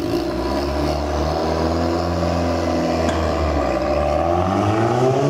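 Audi R8's V10 engine at a high cold-start idle just after firing up, running steadily, its pitch rising slightly near the end.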